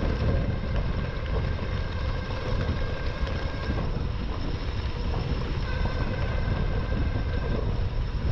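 Wind rushing over the microphone of a moving e-bike's action camera, over a steady low road rumble. A faint thin whine sits on top, dropping out for a couple of seconds in the middle.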